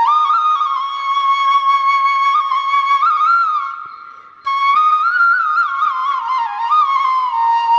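Background music: a solo flute plays a slow melody with long held notes and small ornamental turns, fading out about halfway through and then starting again abruptly.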